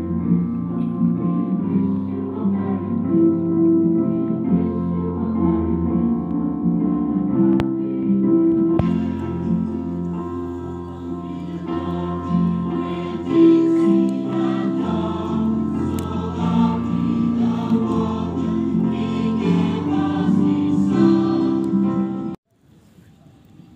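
Choir singing a Christmas medley with instrumental accompaniment; the music cuts off abruptly near the end.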